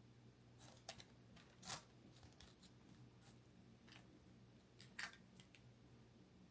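Near silence broken by a few faint short scrapes and clicks, about three, from a spoon spreading pasta sauce over a pizza crust.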